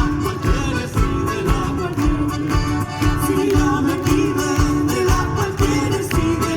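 Live Chilote folk music for a sirilla dance: guitar and singing over a steady beat.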